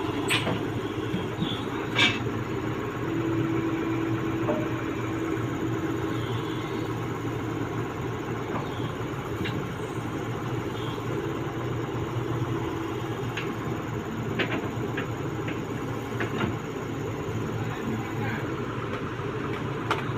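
An engine running steadily, with a few sharp clicks and knocks over it.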